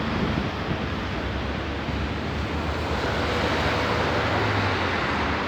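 Wind blowing across the microphone: a steady rushing noise with a low rumble underneath.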